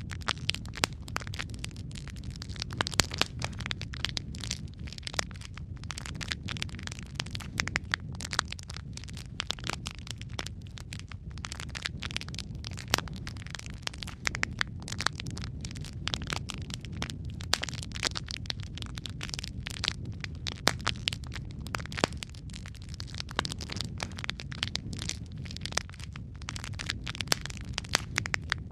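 Wood fire burning in a fireplace: a steady low rumble of flames under irregular crackles and sharp pops from the burning logs.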